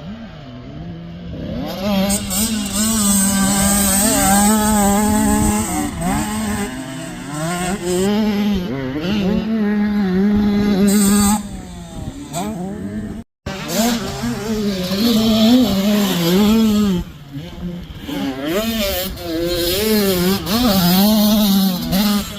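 85cc two-stroke dirt bike engine being ridden, its pitch rising and falling over and over with throttle and gear changes. The sound cuts out for a moment about thirteen seconds in.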